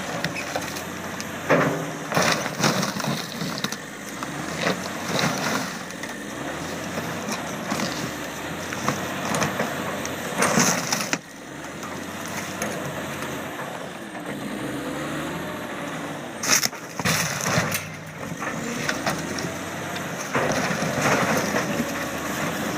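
A heavy loader's engine running and straining as a boat is broken up, with repeated loud cracks and crunches of the hull giving way.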